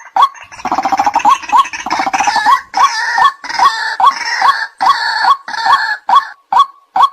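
White-breasted waterhen calling: a loud short rising note repeated about twice a second. From about half a second in until about six seconds a rapid harsh chattering, another part of the waterhen's call, joins in over it.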